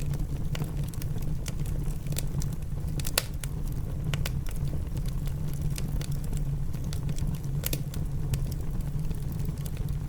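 Wood fire crackling in a fireplace: irregular sharp pops and snaps, a few louder ones among many small ones, over a steady low rumble.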